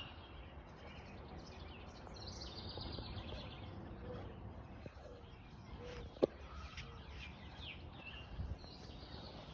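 Mourning dove cooing softly, a short run of low notes a few seconds in, among the high chirps of other small birds. A single sharp click about six seconds in.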